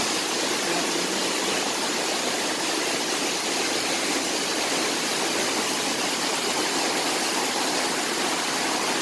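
Steady rushing noise of hurricane rain and wind, with no breaks or separate events.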